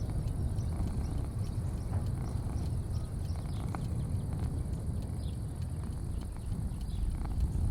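Outdoor ambience: a steady low rumble under a constant high hiss, with faint scattered clicks and short falling chirps.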